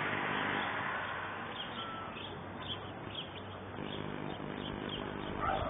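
Birds chirping faintly over a steady outdoor hiss, with a low hum that fades in the first second and returns about four seconds in.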